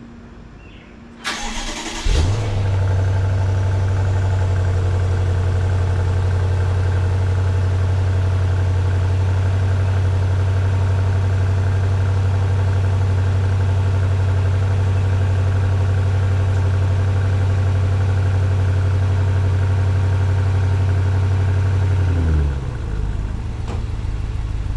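2018 BMW 750Li's twin-turbo V8 cold-started in Sport mode through its stock M Sport exhaust. A short crank about a second in, then the engine catches and holds a loud, steady high cold idle. Near the end it drops to a lower, quieter idle.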